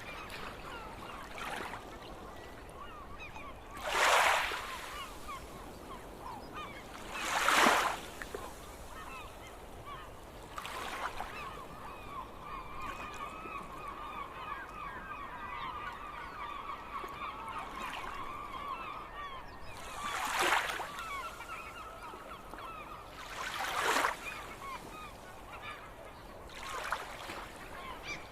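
A flock of gulls calling, many short calls overlapping, with four louder, harsh bursts spread through.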